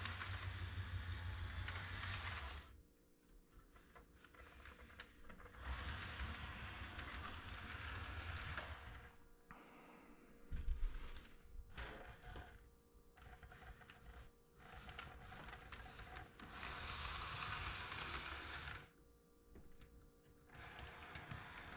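HO scale model train running on the layout's track: faint motor hum with light clattering of wheels on rail. It cuts in and out abruptly several times, with one sharp click about halfway through.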